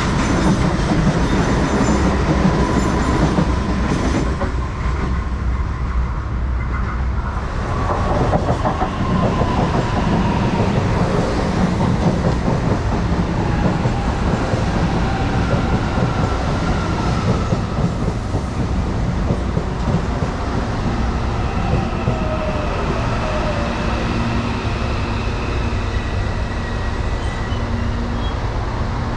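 Electric commuter train running through the station, wheels clattering over the rails under a continuous heavy rumble. Thin whines slide down in pitch about a third of the way in and again later on.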